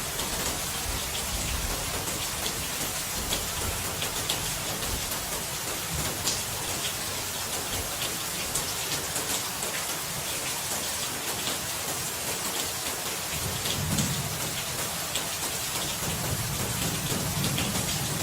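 Steady rain with individual drops ticking through it, and low thunder rumbling twice, briefly about two-thirds of the way in and again near the end.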